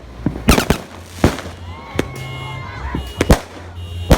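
Fireworks going off in a rapid, irregular series of sharp bangs, about seven reports, two of them nearly together just past three seconds in.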